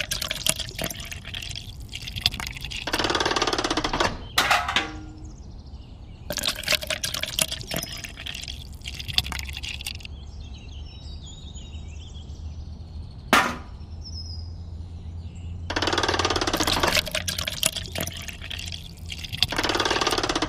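Wet cement slurry pouring from a miniature cement mixer's drum into a small pail and from the pail onto sand, coming in several separate pours a few seconds long. Between the pours there are a few sharp taps.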